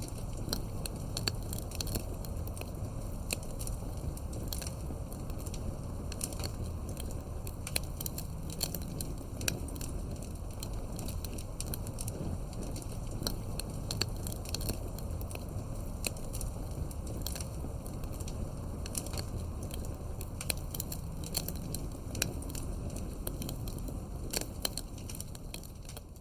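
Campfire of burning firewood logs crackling: a steady low rumble of flame with frequent, irregular sharp pops and snaps of the wood.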